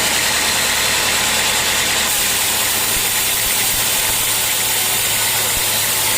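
Sawmill machinery running steadily: an engine or motor with a dense, hissing mechanical noise over a low hum. Its low note shifts slightly about two to three seconds in.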